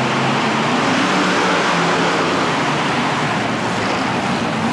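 Monster truck engine running loud and steady, its low drone under a wide wash of arena noise.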